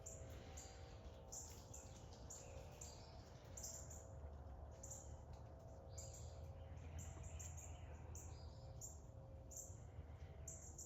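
Small birds chirping: many short, high chirps at irregular intervals over a low, steady background rumble.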